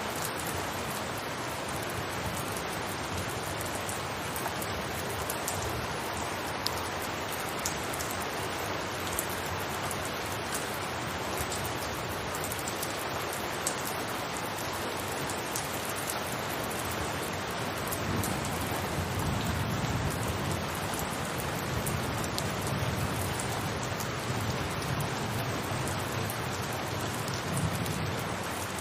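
Steady rain falling on a rooftop, a dense even patter with single drops ticking out now and then. About two-thirds of the way through, a low rumble joins underneath the rain.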